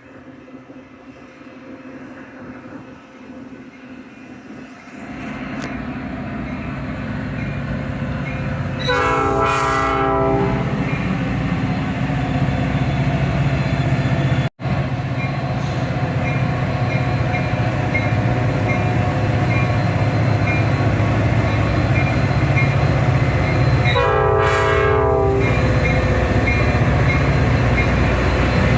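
Train approaching with a low rumble that grows louder, its air horn sounding two blasts about fifteen seconds apart, each about a second and a half long.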